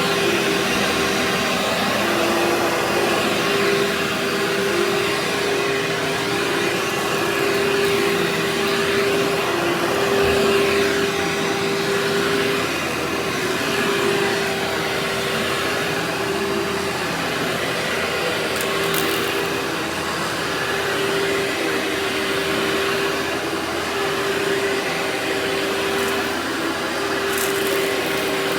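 Workhorse vacuum cleaner running steadily, its motor hum shifting slightly in pitch now and then. A few faint ticks come through in the second half.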